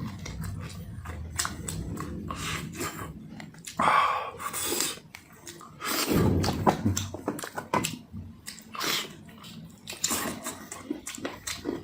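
Close-miked chewing and gnawing on braised beef spine bones, with wet smacking and many small crunching clicks.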